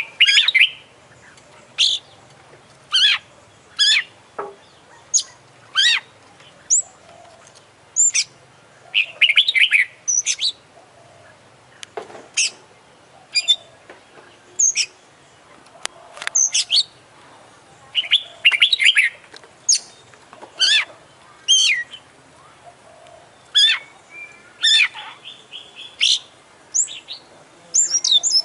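Oriental magpie-robin (kacer) singing vigorously: short, varied whistled and chattering phrases, roughly one every second or so with brief pauses between, its song filled with mimicked calls of other birds.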